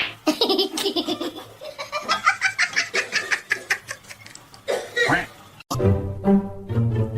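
Hearty laughter in rapid repeated bursts, high-pitched like a young child's. About two-thirds of the way through it cuts off and music with plucked low strings starts.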